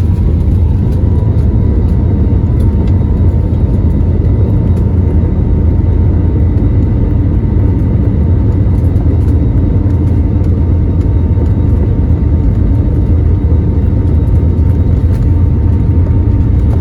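Airliner jet engines at full takeoff thrust, heard from inside the passenger cabin during the takeoff roll: a loud, steady rumble with a faint steady whine above it.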